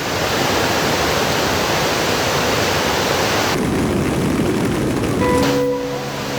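Steady rush of water, with the highest part of the hiss dropping away about three and a half seconds in. Near the end, music with held plucked-string notes comes in over it.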